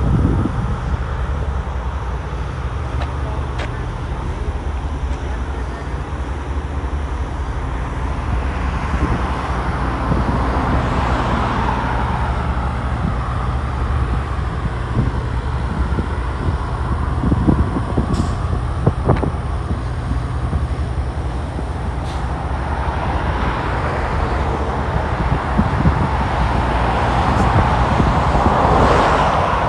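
Road traffic over steady wind rumble on the microphone; a vehicle swells past about ten seconds in and another near the end.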